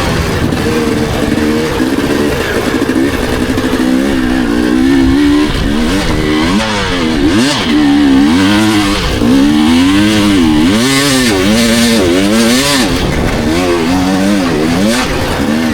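Dirt bike engine revving up and down as the rider works the throttle around a motocross track. The pitch is fairly steady at first, then rises and falls about once a second through the second half.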